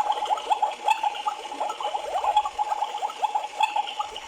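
Battery-powered toy washing machine running after its start button is pressed: a steady electronic tone with a rapid stream of quick falling chirps, the toy's washing sound over its drum motor.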